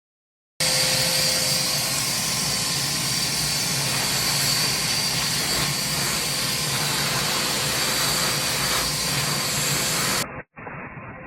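A power tool running steadily, a loud even rushing noise with a faint high whine. It starts abruptly just after the start and cuts off near the end.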